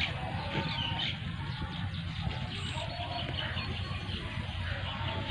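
Small birds chirping and calling over and over, with a steady low rumble underneath.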